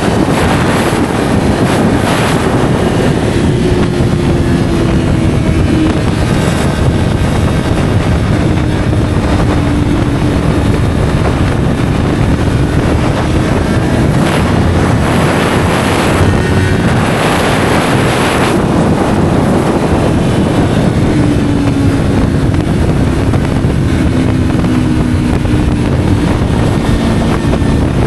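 Yamaha R3's parallel-twin engine through an SC Project slip-on exhaust, cruising with its pitch drifting gently up and down as the throttle changes. Heavy wind rushes over the microphone and swells louder a couple of times in the middle.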